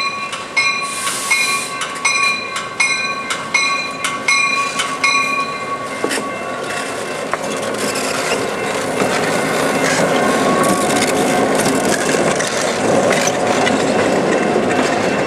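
A bell clangs about twice a second, with a short burst of air hiss about a second in. The bell stops around six seconds in as a CF-7 diesel locomotive passes close by, its engine running and its wheels clicking over the rail joints. Passenger coaches roll past behind it near the end.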